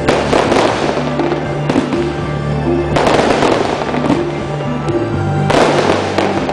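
Fireworks shells bursting close overhead with dense crackling, in three loud surges about every three seconds, over music with a steady bass line.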